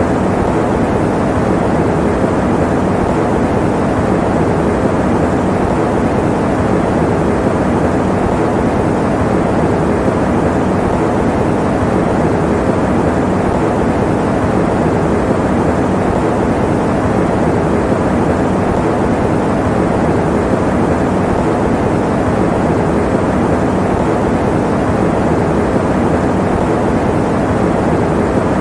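Electric fan running at a steady speed: an even, unchanging whoosh that is fuller in the low and middle range than in the highs.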